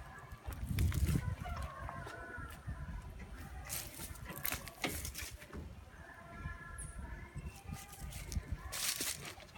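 Chickens calling in short tones several times, with scattered clicks and knocks over a low rumble.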